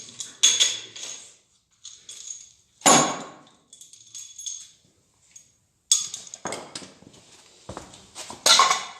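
Metal tools and bolts clanking and clinking on a metal work surface, with three louder knocks about three, six and eight and a half seconds in. Each knock rings briefly.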